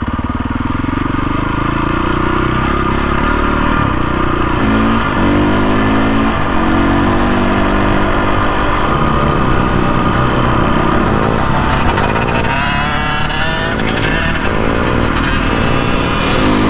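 KTM 450 EXC dirt bike's single-cylinder four-stroke engine being ridden hard, its pitch climbing and dropping again and again through throttle and gear changes. A rushing hiss joins in from about twelve seconds in.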